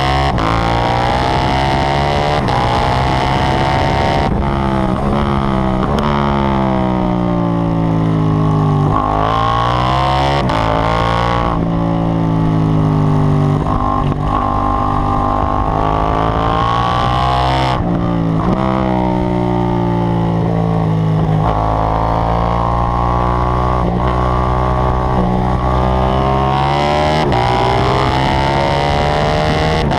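KTM 790 Duke's parallel-twin engine on a track lap: it revs up through the gears in repeated rising sweeps, each cut off by a sudden drop in pitch at the shifts, and it falls away under braking before pulling hard again.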